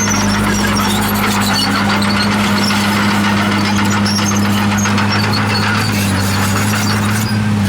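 Komatsu D51PX crawler bulldozer running at a steady engine speed, with short high-pitched squeaks from its steel tracks throughout.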